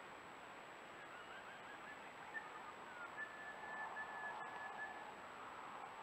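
Faint small-bird calls: a few short rising chirps, then a thin held whistle broken into several pieces. Underneath runs a steady hiss with a thin, high, steady electronic whine.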